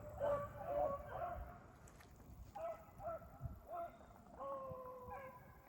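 Rabbit hounds baying while running a rabbit: a quick run of short barks in the first second, more short barks from about two and a half seconds in, then one longer drawn-out howl at about four and a half seconds.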